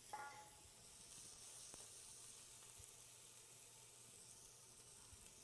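Diced onions frying faintly in hot olive oil in a stainless steel pot: a steady, quiet sizzle.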